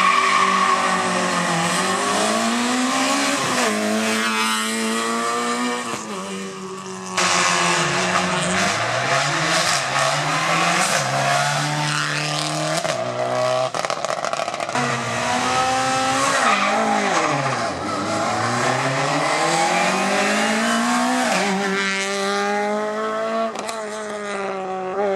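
Rally car engines revving hard, pitch climbing and dropping sharply as the cars accelerate, shift gears and brake for corners, with an abrupt change to another car about seven seconds in.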